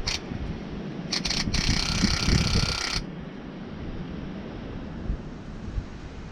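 Electric fuel pump buzzing in fits: a brief blip, two short stutters about a second in, then running for about a second and a half before cutting off sharply. The replacement pump, which had quit, is starting to run again.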